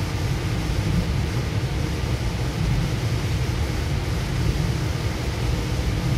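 Goninan K-set double-deck electric train on the move, heard from inside the upper-deck saloon: a steady deep rumble with a fainter hiss above it.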